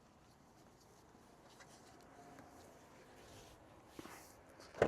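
Near silence: faint room tone with a few small ticks, and one short, sharper click near the end.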